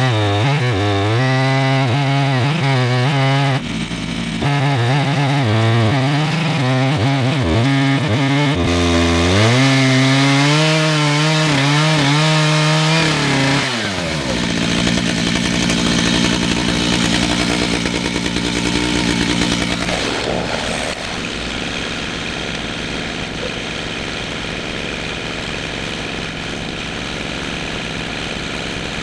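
Two-stroke chainsaw engine cutting lengthwise through a red oak log as a chainsaw mill, its pitch wavering up and down under the load of the cut, with a brief dip about three and a half seconds in. About fourteen seconds in, the pitch falls sharply and the engine settles into a steadier, lower running note.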